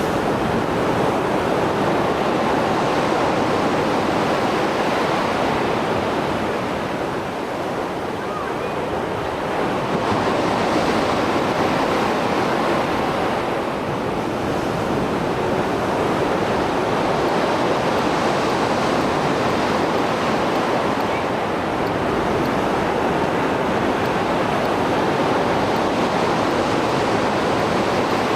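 Rough Mediterranean sea after a storm: waves breaking and washing on the shore in a continuous surf, swelling and easing every several seconds.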